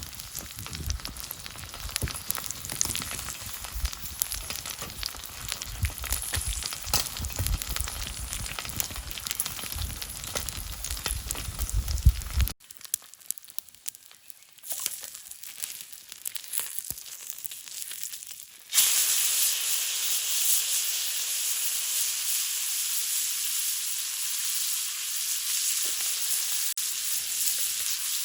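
Steak sizzling and popping on a wood-fired grill over a campfire. Not quite halfway through the sound cuts to a quieter stretch with scattered crackles. About two-thirds of the way in it gives way to a loud, steady sizzle.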